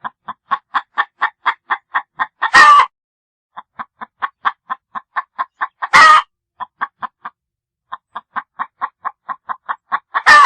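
Chicken clucking: a steady run of short clucks, about four a second, broken three times by a louder, longer squawk.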